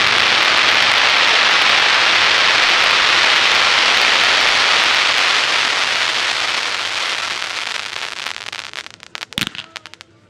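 Fireworks crackling: a dense, steady crackle of many tiny pops from glittering crackle stars that fades away over the last few seconds. A few sharp pops and one louder bang follow near the end.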